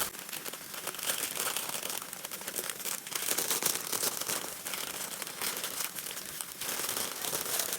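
Parchment paper crinkling and rustling in irregular bursts as it is lifted and rolled around a soft sugar-and-peanut-butter dough to shape a log.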